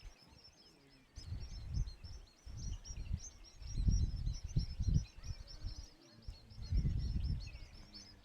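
Many small birds chirping continuously in quick, high-pitched notes, with intermittent low rumbles that come and go over it.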